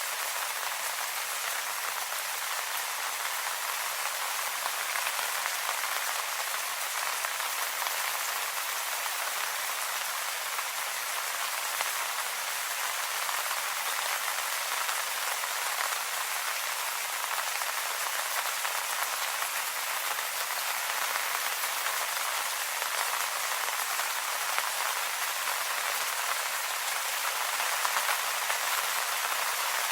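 Steady rain pattering on leaves, an even hiss of many small drops.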